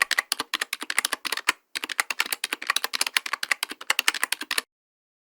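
Fast typing on a keyboard: a quick run of sharp key clicks, several a second, that breaks off for a moment about a second and a half in, resumes, then stops suddenly near the end.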